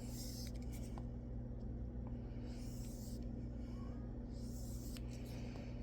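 Steel knife edge being stroked over a fine 9-micron sharpening abrasive, a scraping hiss every couple of seconds, while the sharpener works off a burr that won't come away. A steady low electrical hum runs underneath.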